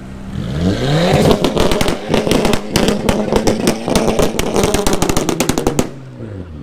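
A car engine revved up hard and held at high revs with a rapid string of loud cracks and pops from the exhaust, then let drop back with falling revs near the end.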